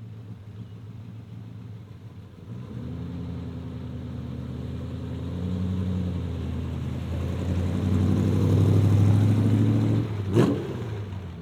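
Car with a 355 cubic-inch V8 running at a steady low speed, getting louder over about nine seconds and then easing off. A single sharp knock comes about ten seconds in.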